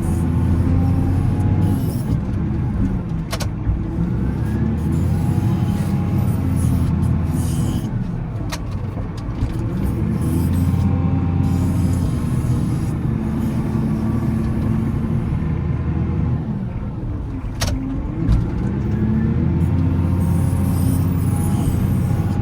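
Volvo L70C wheel loader's diesel engine running steadily while plowing snow, its pitch dipping and rising again several times. Three sharp clicks or knocks cut through it.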